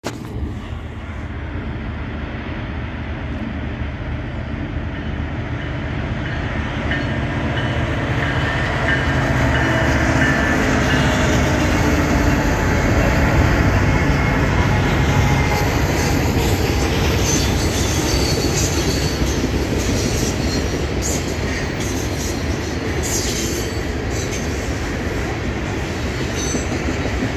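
Union Pacific freight train with five diesel locomotives approaching and passing, its engines rumbling loudest as they go by about halfway through. The freight cars then roll past with steady wheel clatter on the rails.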